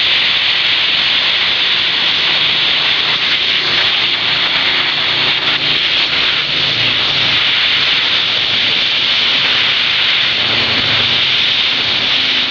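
Torch flame burning with a steady hiss as it heats a fouled lawn mower spark plug to burn off the oil and diesel fouling.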